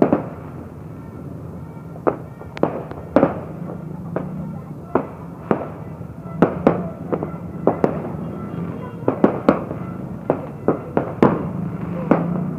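Fireworks going off: about twenty sharp bangs at irregular intervals, coming more thickly in the second half, over a steady low background hum.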